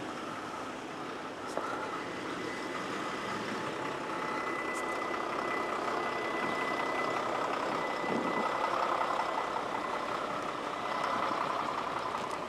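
City road traffic running past on a snowy street, with a thin steady high tone through the middle and a slight swell as a vehicle passes near the end.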